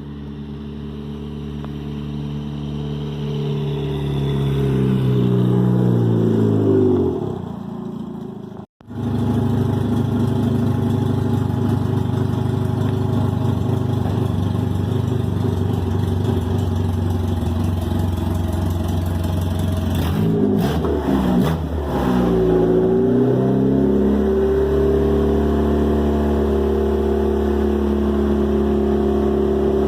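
Race car engine running loud while being warmed up, driven along a driveway: the pitch climbs for several seconds as it accelerates, then drops. It cuts out abruptly just before 9 s, then runs steadily, dipping and climbing again in pitch around 21 s.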